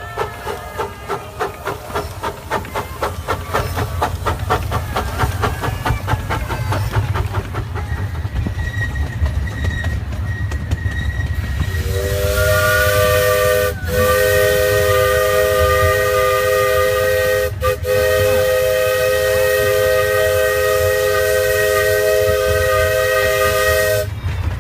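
Live-steam locomotive of a miniature railway working with rhythmic exhaust chuffs, a few a second, over a steady low rumble. About halfway through, its multi-note chime whistle sounds in a long blast of about twelve seconds, cut twice briefly, then stops.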